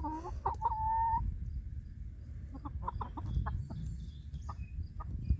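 Chickens calling: a drawn-out call in the first second, then a run of short clucks, over a low rumble.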